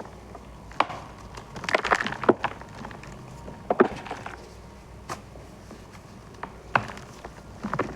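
Reformed gym chalk balls being crushed, giving short crunchy crackles with quiet gaps between them. The densest crunch comes about two seconds in, followed by single crunches near four, five, seven and eight seconds.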